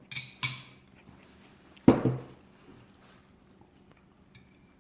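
A single sharp knock about two seconds in, after two brief hissy sounds near the start.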